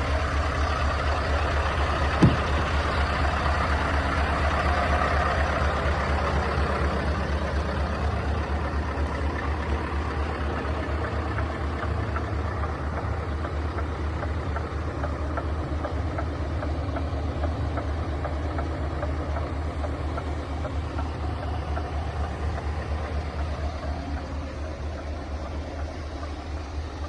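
Scania S520's V8 diesel engine idling steadily with a low, even rumble that slowly fades. A single brief sharp sound comes about two seconds in.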